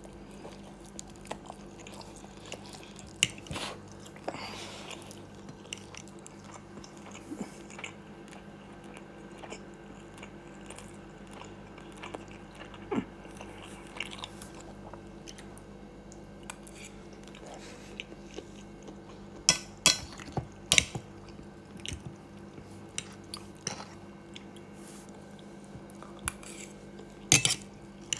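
A person chewing a meal of stir fry and rice close to the microphone, with a few sharp clinks of cutlery on a plate, clustered about two-thirds of the way through and again near the end. A steady low hum runs underneath.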